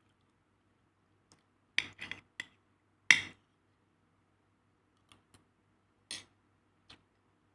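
Kitchen utensils and dishes clinking and knocking in separate short strokes: a quick cluster near two seconds, the loudest about three seconds in, then a few lighter taps.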